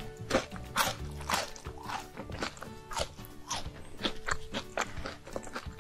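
Close-miked chewing and crunching of chocolate snacks, about two crisp crunches a second, over soft background music.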